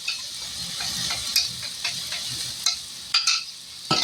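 Ground beef sizzling in a pan with taco seasoning and water just poured in, while a utensil stirs and scrapes against the pan in short strokes, the loudest stroke near the end.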